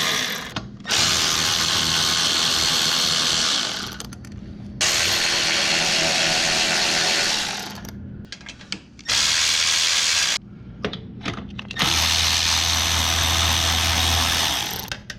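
Power drill running in about five bursts of one to three seconds each, with short pauses between, as the motorcycle's stock mufflers are unbolted.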